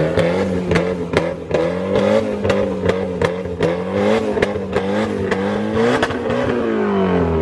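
A car engine revved up and held at high rpm for about six seconds, with sharp pops repeating about three times a second, then the revs drop back toward idle near the end.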